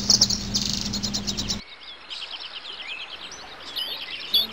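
Birds chirping and singing. A loud, fast run of chirps stops abruptly about a second and a half in and gives way to softer, varied chirps and whistles.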